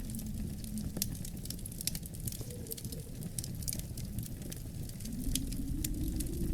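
Wood fire crackling, with frequent sharp snaps and pops over a low, steady rumble.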